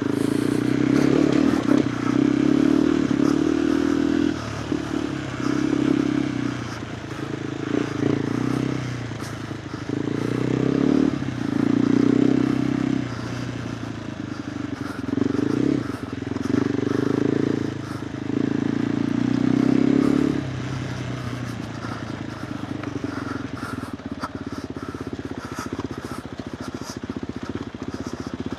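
KTM 390 Adventure R's single-cylinder engine through a Norifumi Whoops stainless-steel slip-on exhaust, ridden off-road. The throttle opens and closes in repeated bursts, the pitch rising and falling, for about the first twenty seconds, then the engine runs lower and steadier toward the end.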